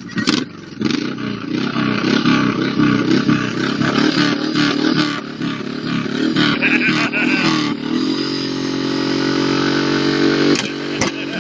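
Honda VTX1800's big V-twin engine revving unevenly under throttle, then held at steady high revs from about eight seconds in, with a brief dip near the end.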